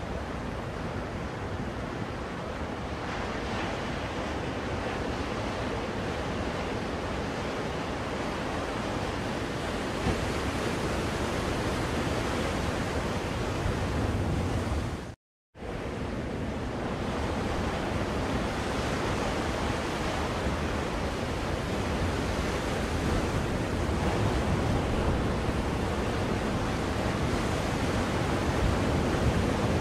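Ocean waves washing on a shore in a steady, even rush, used as a white-noise soothing track. The sound cuts out completely for about half a second around the middle, then resumes.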